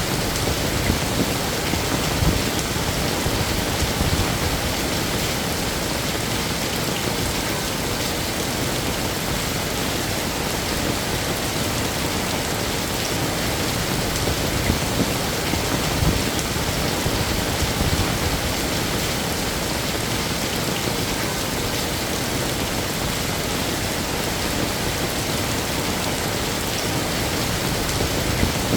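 Heavy rain falling steadily, an even wash of drops hitting surfaces.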